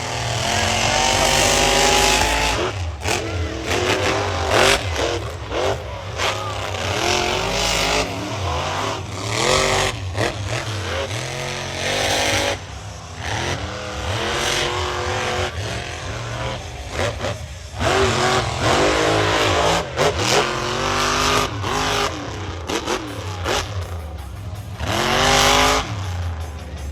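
Monster truck engines revving hard, the pitch climbing and dropping again and again as the drivers get on and off the throttle.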